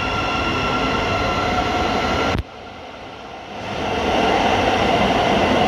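Thameslink Class 700 electric train running at the platform, its traction motors giving a steady whine over the rumble of the wheels. The sound cuts off abruptly a little over two seconds in, then train noise builds back up to full level.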